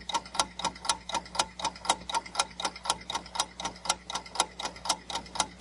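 Quiz countdown timer sound effect: a clock ticking evenly at about five ticks a second over a faint steady low hum, marking the seven-second time to answer.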